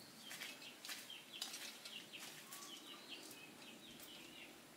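Faint birds chirping: many short, high chirps repeated throughout, with a few soft clicks.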